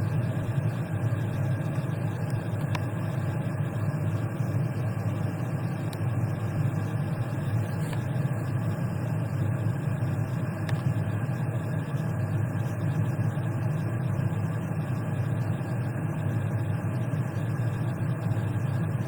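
Steady low rumbling background noise with no speech, unchanging throughout.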